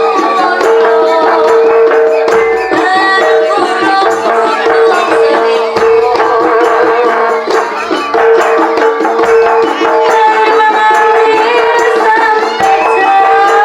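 Live jaranan music from a Javanese gamelan-style ensemble: a steady held tone under a wavering melody line, busy rattling percussion, and a deep low stroke about every three and a half seconds.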